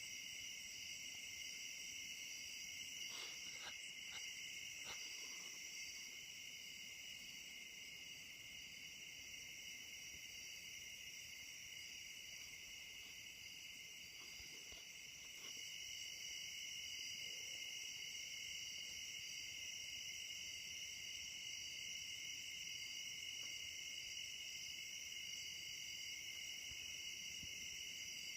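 Night chorus of insects: steady, continuous high-pitched trilling at two pitches, one well above the other, growing slightly louder a little past halfway.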